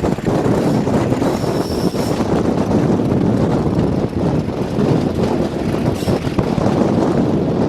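Wind buffeting the microphone in a loud, steady rumbling roar that masks other sound.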